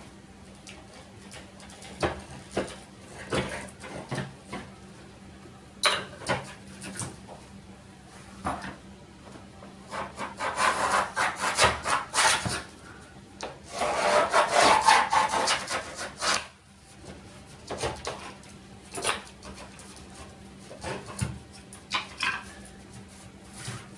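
Shower wall tiles and grout being pried and scraped off with a hand tool: scattered sharp knocks, with two spells of heavy scraping in the middle.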